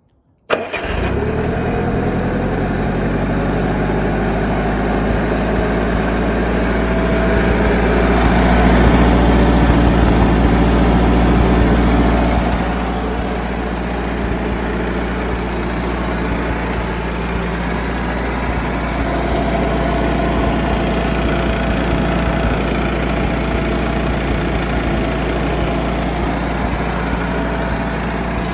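Gas-engined concrete saw running steadily; it grows louder for several seconds in the middle, then drops back to a steady run.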